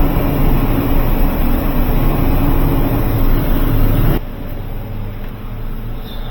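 Loud machinery running with a steady low hum, cutting off abruptly about four seconds in and leaving a quieter background noise.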